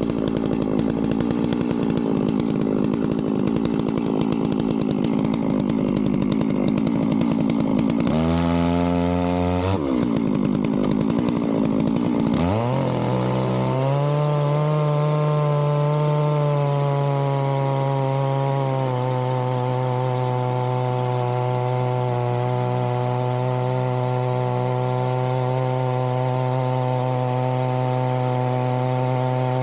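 Big Holzfforma 660-class chainsaw running hard. For about eight seconds it runs with a dense, rough sound. Then its pitch jumps, dips and climbs back, and from about halfway it holds a steady high-revving drone that steps slightly lower a few seconds later.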